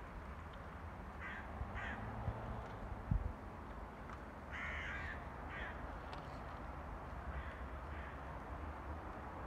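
A bird giving short, harsh calls: two about a second and a half in, a louder pair around five seconds in, and fainter ones later, over a steady low rumble. One dull thump about three seconds in.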